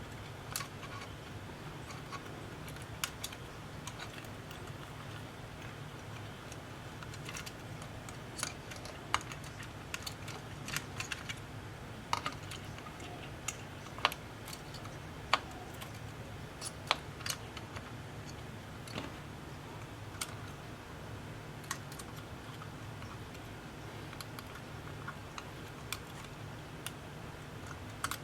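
Scattered, irregular small sharp clicks and taps of hand tools and small parts being handled while a tablet is taken apart, over a steady low hum.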